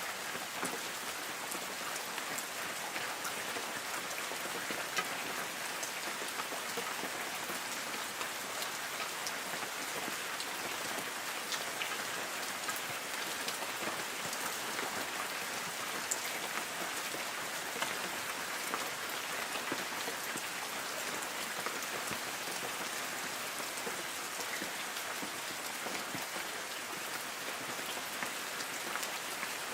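Light rain falling steadily on forest trees: an even patter with many small scattered drop ticks.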